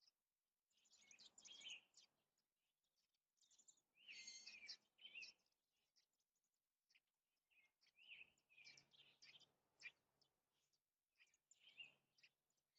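Faint birdsong: quick high chirps and twitters in four short bouts of a second or two each.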